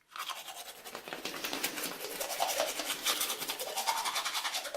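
Toothbrush scrubbing teeth: quick, even back-and-forth brushing strokes that grow a little louder after about a second and a half and stop near the end.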